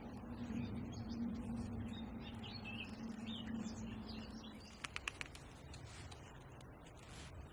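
A bird chirping in short calls over a steady low hum that stops a little past halfway. A quick run of clicks follows soon after.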